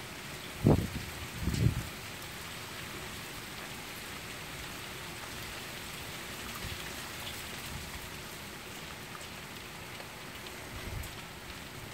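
Steady rain falling, an even hiss of drops, with two short low thumps about a second in and a fainter one near the end.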